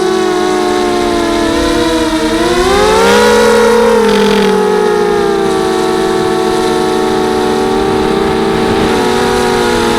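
A 250-size FPV quadcopter's motors and propellers whining at several pitches at once. The pitch rises about two to three seconds in, then holds fairly steady.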